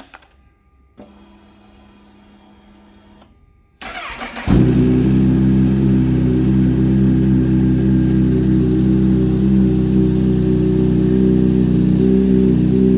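Kawasaki Z H2's supercharged 998cc inline-four, fitted with a Scorpion Black Ceramic exhaust, being started. A faint hum comes first, then the starter cranks briefly about four seconds in and the engine catches and settles into a loud, steady idle.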